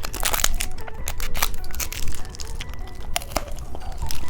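Plastic candy packaging crinkling and being torn open in quick, irregular crackles.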